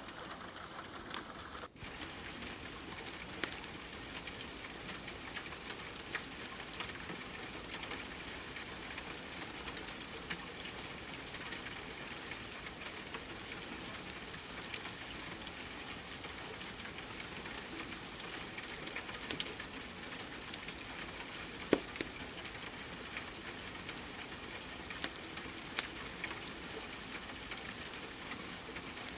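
Steady rain hiss mixed with a wood fire's scattered small crackles, with a couple of louder pops about two-thirds of the way through.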